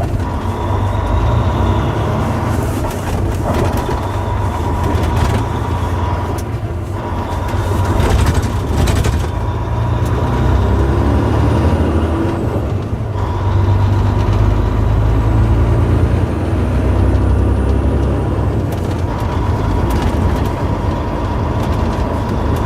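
Volvo D16 16-litre six-cylinder diesel engine of a semi truck running, a deep rumble that swells and eases, with a steady thin whine above it.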